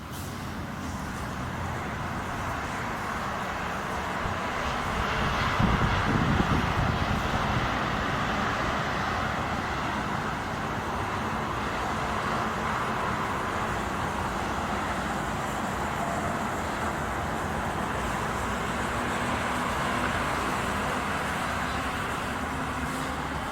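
Steady road-traffic noise from motor vehicles, swelling briefly about six seconds in.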